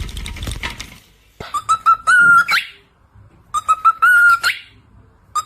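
A parrot whistling the same short phrase over and over: a few quick chirpy notes, then a held whistle that flicks upward at the end. The phrase is heard twice, and a third time begins right at the close. A brief burst of noise comes first.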